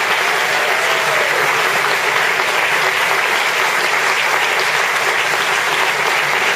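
Audience applauding steadily: a room full of people clapping hands.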